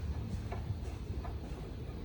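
Light, irregular metallic clicks of hand tools and injector parts being handled, over a low steady hum.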